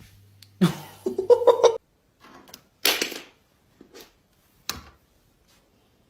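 A cat meowing for about a second, followed by a few short hissy noises.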